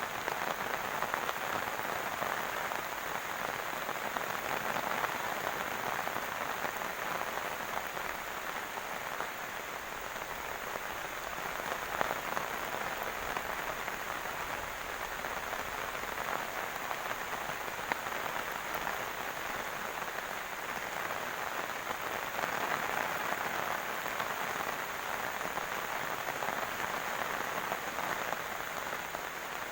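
Heavy rain falling steadily: a dense, even hiss of countless drops with no let-up, with a single sharp tick midway through.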